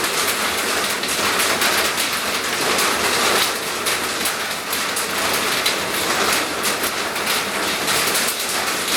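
Steady rain falling, a continuous even hiss made of many small drop hits.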